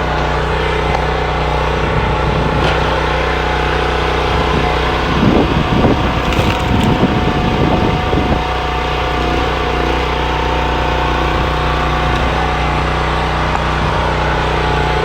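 The 15 hp pull-start engine of a 45-ton hydraulic log splitter running steadily. A louder, uneven stretch comes about five to eight seconds in.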